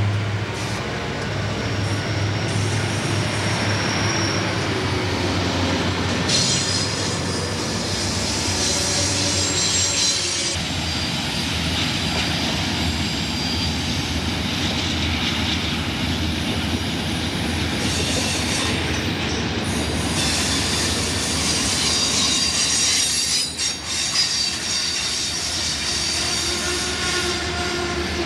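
Santa Fe freight train passing close: the diesel locomotives' engines rumble at first, then the trailer-on-flatcar cars roll by with steel wheels squealing against the rail on the curve in long high-pitched stretches, about six seconds in and again from about eighteen seconds on.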